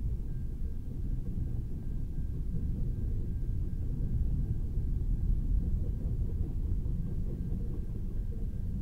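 Freight train cars rolling past at speed: a steady low rumble of steel wheels on the rails, with a faint high steady tone above it.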